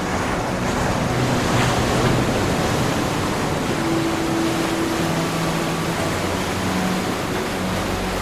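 Ocean surf: waves breaking and washing in a continuous rush, swelling to a peak about two seconds in. Faint held low tones sound underneath.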